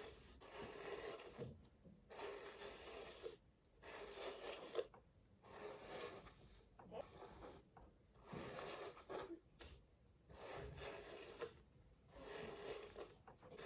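Massage hairbrush pulled through long hair in repeated soft strokes, each a second or so long with short pauses between, the bristles rustling and scratching through the hair.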